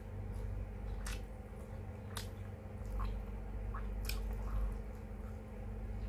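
Close-miked wet chewing and lip smacks of someone eating vinegar-stewed fish (paksiw na isda), with a sharp mouth click about once a second over a steady low hum.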